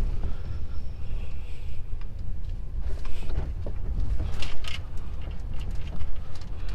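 Truck running slowly, heard from inside the cab: a steady low engine rumble with scattered creaks and rattles of the cab.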